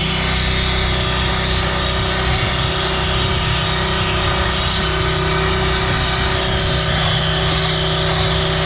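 Pressure washer running steadily with a wet sandblasting nozzle attached, giving a constant hiss of water and sand spraying over a steady engine-like hum.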